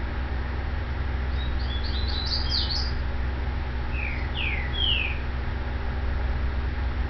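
A bird chirping: a quick run of short high chirps, then about a second later three short sweeping whistles, over a steady low hum.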